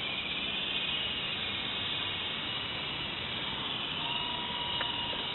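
Double Horse 9053 RC helicopter's electric motors and rotor blades running: a steady high whine over a hiss of rotor noise.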